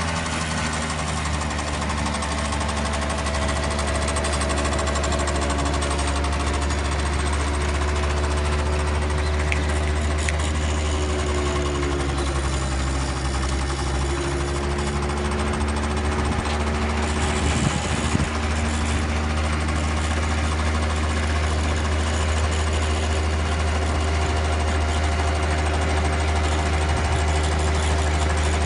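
Small fuel engine of a student-built Shell eco-marathon car running steadily as the car drives, its pitch sagging slightly midway. A few sharp knocks sound about two-thirds of the way through.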